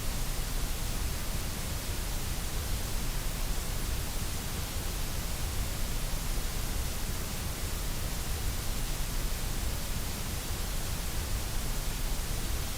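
Steady, unbroken hiss of generated white noise, even across the whole range from deep rumble to high hiss.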